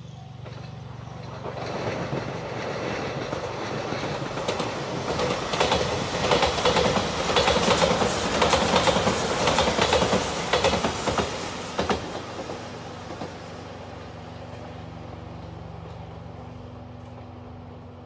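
Anpanman-liveried limited express train passing close by: a rising rush of wheels on rail, loudest in the middle with a rapid clickety-clack of wheels over rail joints, then fading away.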